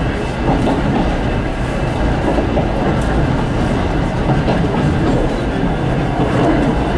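Running noise inside an old locomotive-hauled passenger coach on the move: a steady rumble of the wheels on the track, with some clatter.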